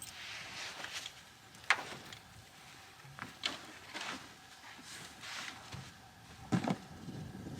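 A few sharp knocks and clunks, about two seconds apart, with rustling between them, as gear is handled and moved about.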